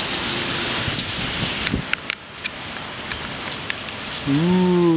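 Steady patter of rain with water dripping and ticking onto surfaces, with a few louder taps. Near the end a person's voice makes a drawn-out sound lasting about a second.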